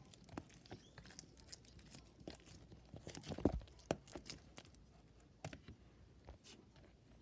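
Scattered small crackles, clicks and rustling of something being handled close to the microphone, with a louder crunch about three and a half seconds in.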